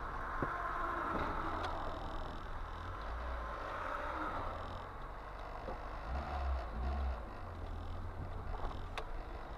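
Steady low rumble of a car on the move, engine and road noise, with a single sharp tick near the end.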